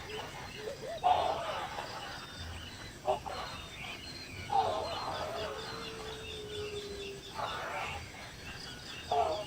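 Bird calls: a few short, bending calls about a second in, midway and near the end, one long steady note in the middle, over faint high chirping.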